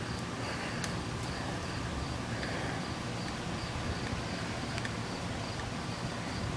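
Insects chirping steadily in a high, pulsing trill over a faint outdoor hiss.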